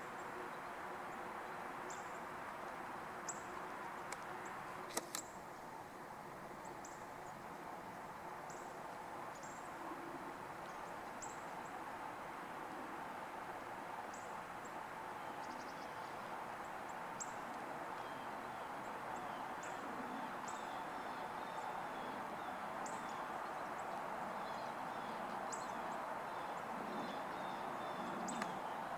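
A small bird giving short, high chip calls about once a second over a steady background hum. A sharp double click comes about five seconds in.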